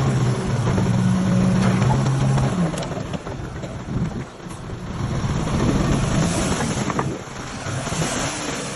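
Heavy diesel engine of earthmoving machinery running with a steady drone that gives way, about two and a half seconds in, to a rougher, noisier rumble with a few scattered knocks.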